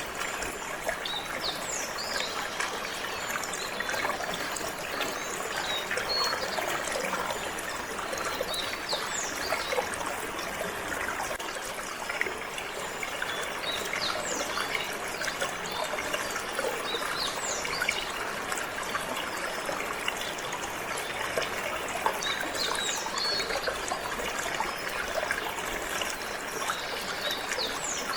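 Water trickling and flowing steadily, with birds giving short, scattered chirps over it.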